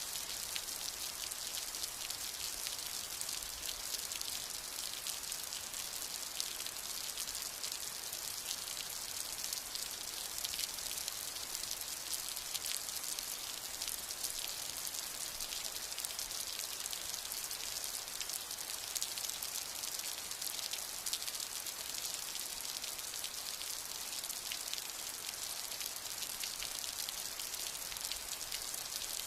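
Steady rain: a dense, even hiss of falling drops, with the fine ticks of single drops striking a surface.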